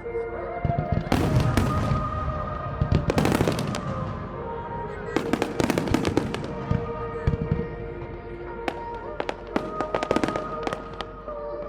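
Fireworks display: shells bursting and crackling in rapid clusters, with quieter gaps between volleys, over music with long held notes.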